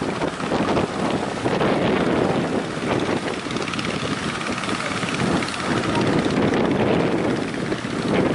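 Strong wind and sea waves: a loud, continuous rushing noise that swells and eases.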